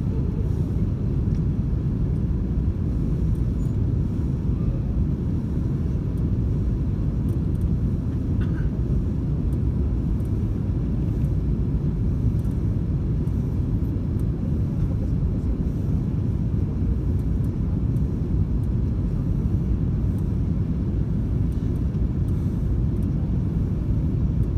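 Steady low rumble of jet engines and airflow heard inside the cabin of an Airbus A330-202 airliner.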